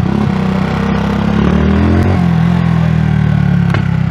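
Single-cylinder engine of a Honda CBX 250 Twister motorcycle running under light throttle in traffic, rising a little in pitch over the first two seconds and then holding steady.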